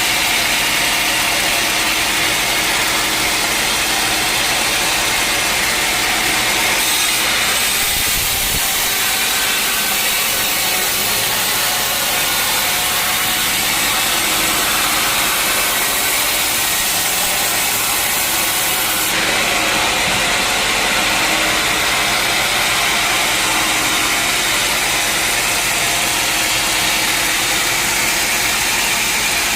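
A sawmill's saw cutting steadily through a teak log over the running drone of the mill's engine, with a loud high hiss from the cut that shifts a couple of times.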